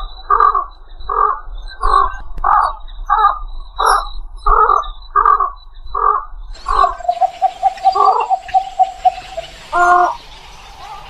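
Egret calling: harsh croaking calls repeated about twice a second. After about six and a half seconds they give way to a longer, rattling held call and then a single croak near the end.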